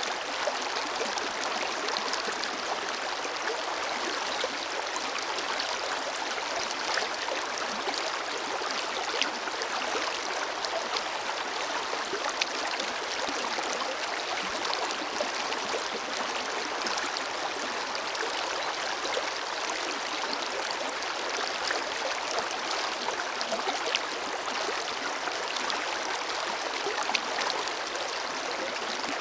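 Forest river flowing steadily over rocks, a constant rushing with many small splashes and gurgles.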